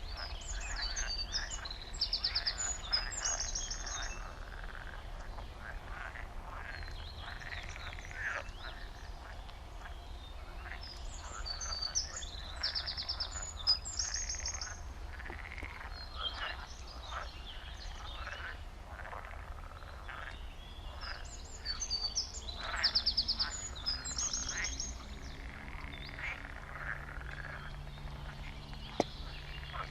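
A chorus of frogs croaking continuously, many calls overlapping. Over it a songbird sings a short, fast trilled phrase three times, about every ten seconds.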